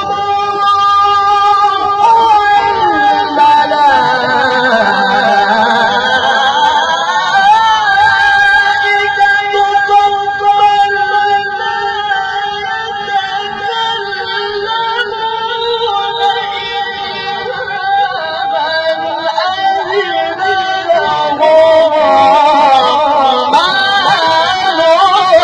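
A young male qari's melodic Quran recitation, drawn out into long held notes with wavering ornaments. The pitch sinks about four to six seconds in, climbs back, and the voice swells louder near the end.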